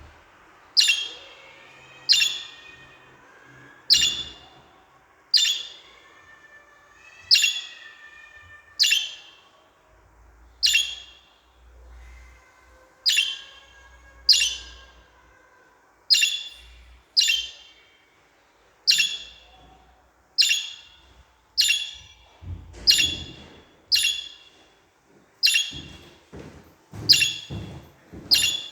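Pet budgerigars calling: a steady series of loud, sharp chirps, one every second or so, each a short downward sweep, with faint warbling between the first few.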